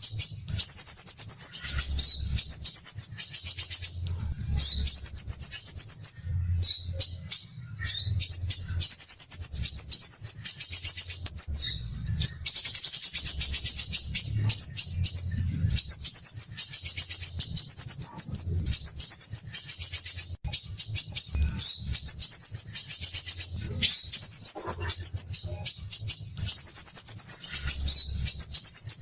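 Sepah raja (scarlet minivet) singing its dense, rough, rapid trilled phrases, high-pitched and repeated one after another with only brief gaps.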